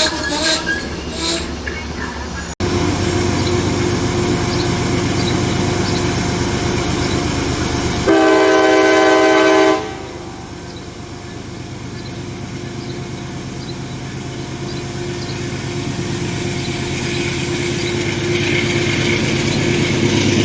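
A train running on the track with a steady rumble, and one horn blast of nearly two seconds about eight seconds in; the horn is the loudest sound. The sound drops out for an instant about two and a half seconds in.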